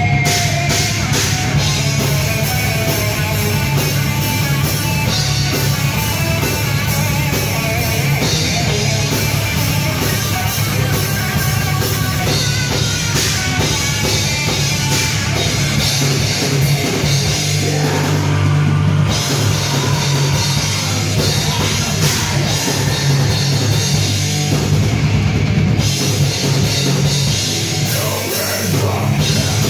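Live heavy rock band playing, with loud drum kit and distorted guitars.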